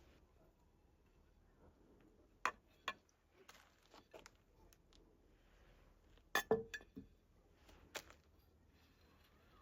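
Scattered light clinks and knocks of kitchenware, with a quick cluster of them, the loudest, about six and a half seconds in.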